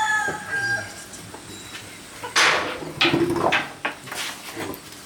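A rooster crowing, the crow trailing off within the first second. Several short, sharp noisy bursts follow from about two and a half seconds in, the first the loudest.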